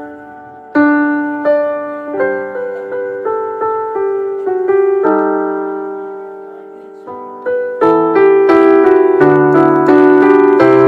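Piano playing a melody of single struck notes that each ring and fade, growing louder and denser about eight seconds in.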